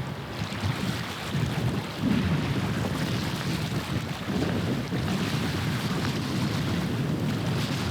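Wind gusting on the microphone at the waterside, over a steady low drone of a passing ship's or barge's engine and the wash of water.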